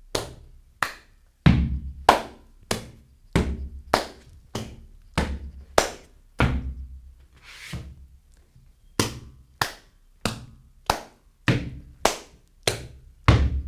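Gumboot dance: rubber boots stamping on a platform in a steady rhythm of about two strikes a second. Heavy thudding stamps alternate with lighter, sharper strikes.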